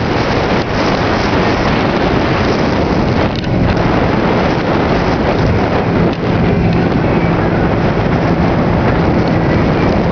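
Wind buffeting the microphone on a moving motorboat, over the steady drone of the boat's engine, which comes through as a low hum from about three seconds in.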